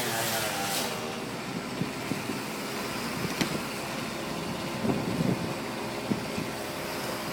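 Heavy equipment engine running: a pitched engine hum fades out about a second in, leaving a steady rumble with a few scattered knocks and clunks.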